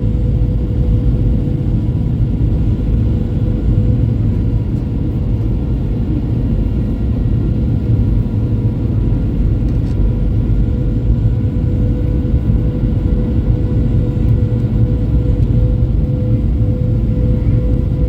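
Steady loud rumble of an airliner cabin in flight, engine and airflow noise with a constant hum on top.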